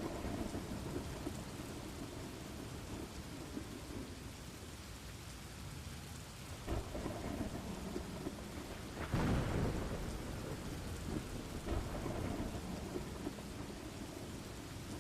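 Steady rain with thunder rumbling. A small swell comes about seven seconds in, and a louder thunderclap about nine seconds in rolls away over the next few seconds.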